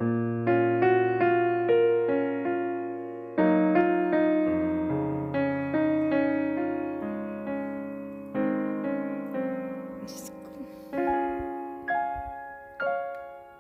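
Background music: a gentle solo piano piece, single notes and chords struck a few times a second, each fading away.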